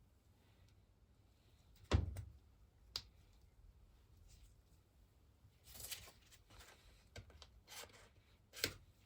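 Small metal parts of an old engine's water pump being handled and fitted by hand: a sharp knock about two seconds in, a click a second later, then rustling and a few more light clicks.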